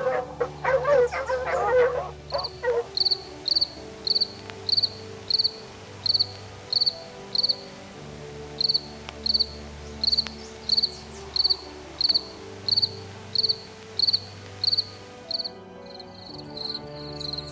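A dog howling and yipping for the first few seconds, then a cricket chirping steadily at just under two chirps a second over soft background music. Near the end the chirping changes to a faster, denser trill.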